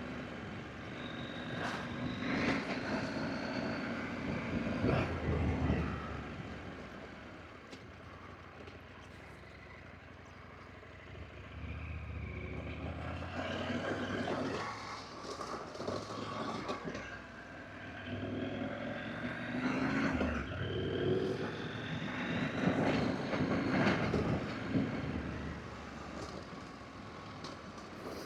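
Adventure motorcycle engine running while riding a dirt road, revving up through the gears several times with rising pitch, and easing off into a quieter stretch around a third of the way in.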